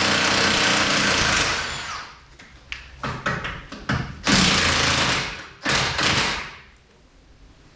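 Impact wrench hammering in several bursts, undoing the bolts that hold the car's subframe brace: a long run at the start, a few short blips, then two shorter bursts past the middle before it stops.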